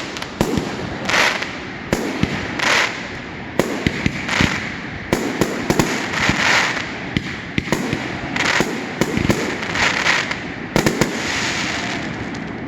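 Aerial fireworks going off in quick succession: many sharp bangs from bursting shells, mixed with hissing, crackling bursts.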